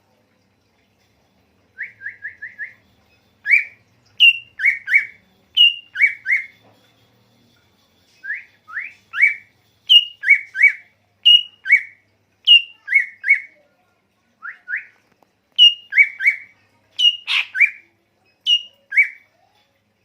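Songbird song played as a master-song recording for training a caged bird: phrases of short, quick upward-sweeping whistled chirps, often in pairs, each pair led by a higher note, starting about two seconds in with a fast run of four notes and broken by brief pauses.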